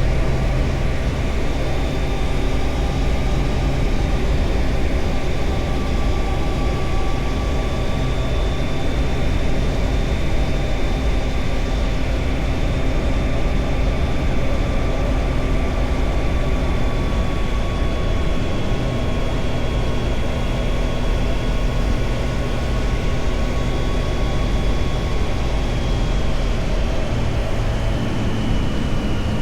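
Triumph Tiger Sport 660's three-cylinder engine running at fairly steady revs on the move, with wind and road rush. The engine note drifts slowly and shifts a couple of times, about a second in and again past the middle.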